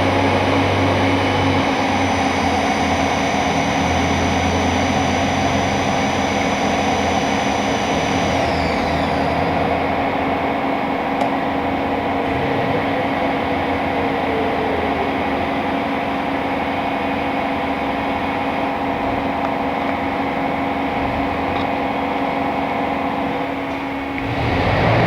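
Fadal VMC4020A CNC vertical machining center running: a steady mechanical hum with several whines from its motors. A high whine glides down in pitch and dies away about eight seconds in. The sound dips briefly near the end and then picks up again.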